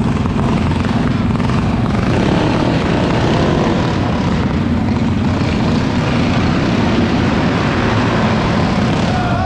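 Small mini bike engines running steadily at high revs.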